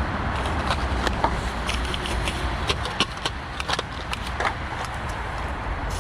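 Steady rumble of road traffic going past on a busy main road, with scattered sharp crackles and clicks close by.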